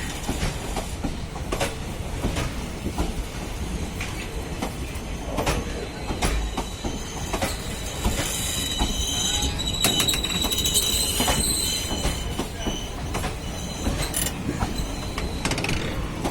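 Passenger train coaches rolling past on departure, their wheels clicking over the rail joints over a steady rumble. A high wheel squeal rings out about halfway through and fades a few seconds later.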